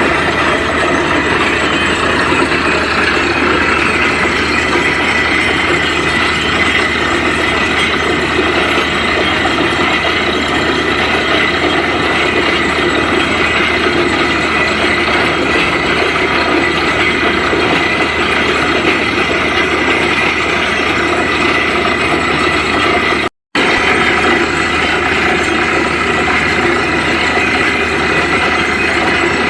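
Truck-mounted borewell drilling rig running steadily, its engine and machinery making a continuous mechanical din that drops out for an instant about 23 seconds in.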